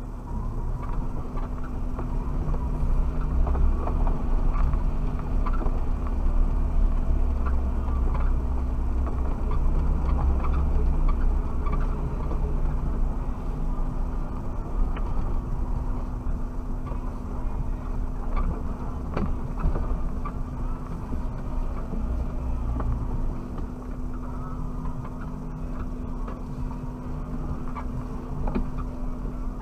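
Suzuki Jimny's engine running as the 4x4 is driven over rough ground, heard from inside the cabin: a steady low drone, louder for the first twenty-odd seconds, then easing, with scattered knocks and rattles.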